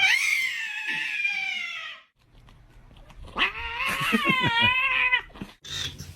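A cat yowling: a long drawn-out call that rises and then slowly falls, and after a short pause a second long yowl that wavers up and down, followed by short calls near the end.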